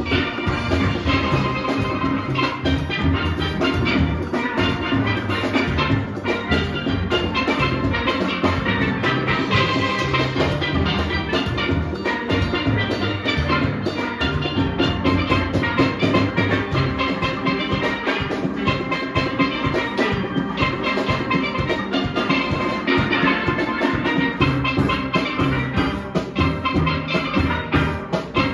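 Full steel orchestra playing a fast soca arrangement: many steelpans ringing out chords and melody over a steady, driving drum and percussion rhythm section.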